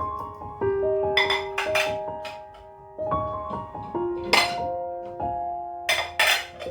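Background piano music, slow held notes stepping from one to the next, with a few short sharp taps, the loudest about four seconds in and a pair near the end.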